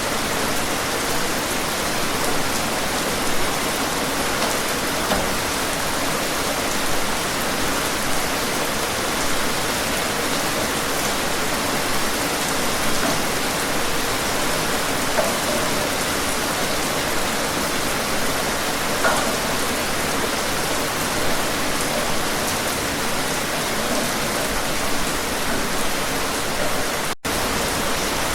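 Steady rain falling: a dense, even hiss with scattered louder drop hits. The sound cuts out for an instant near the end.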